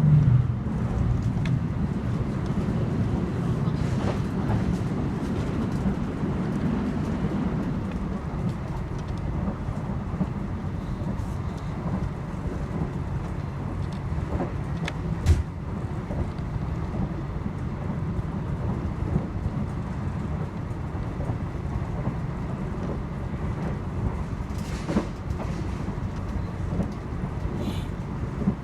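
Argo Bromo Anggrek express train running at speed, heard from inside a passenger coach: a steady low rumble of wheels on rail with a few sharp clicks and knocks, the loudest about halfway through.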